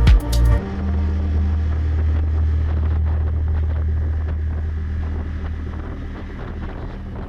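Music with a beat cuts off about half a second in, leaving a steady low drone with a light hiss over it that slowly fades.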